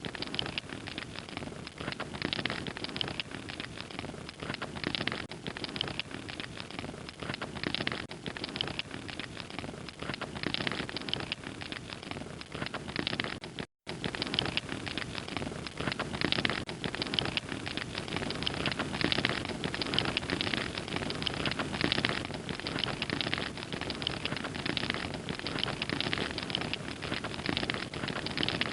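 Fire crackling steadily, a dense run of small pops and snaps over a soft hiss; the sound cuts out for an instant about halfway through.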